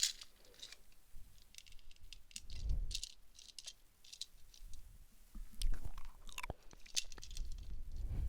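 Faint, irregular small clicks and crackles close to the microphone, with a few soft low bumps, the loudest about three seconds in and about six seconds in.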